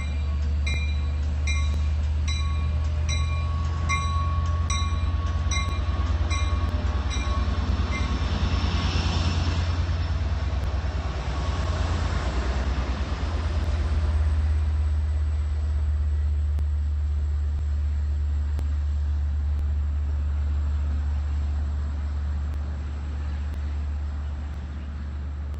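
A diesel locomotive pulls in, its deep engine hum steady throughout, while its bell rings about once a second for the first eight seconds or so. A hiss follows, then the rush of the coaches rolling past, which peaks around the middle and eases off as the train slows.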